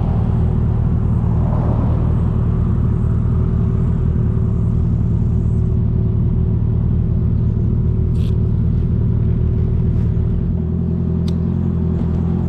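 Aprilia Tuono V4 motorcycle's V4 engine idling steadily without revs, its low note shifting slightly about ten and a half seconds in.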